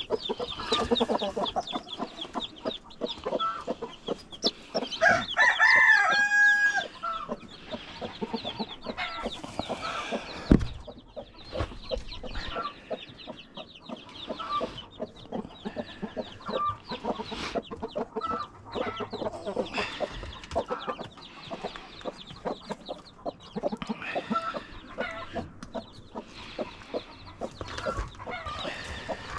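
Chickens clucking throughout, with a rooster crowing once about six seconds in. A single sharp knock comes about ten seconds in.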